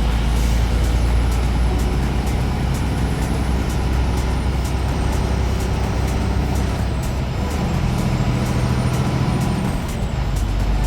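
Steady drone of a truck's engine and road noise heard while driving, with background music over it.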